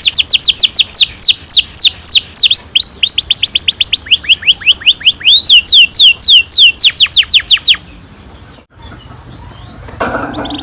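Domestic canary singing a rolling song: a quick series of repeated falling whistled notes, about five a second, in phrases that change note shape and pace. The song breaks off about three-quarters of the way through, and a softer, different sound starts near the end.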